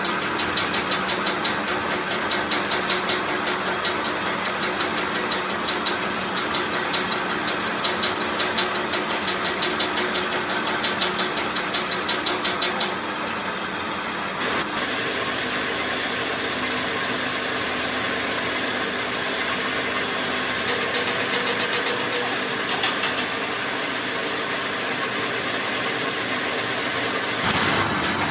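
A motor running steadily, with rapid fine ticking in stretches; the sound shifts abruptly twice.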